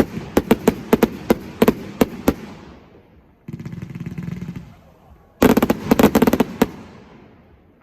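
Fireworks going off: a rapid string of sharp bangs for the first two seconds or so, then a stretch of softer crackling, then another dense volley about five seconds in that dies away near the end.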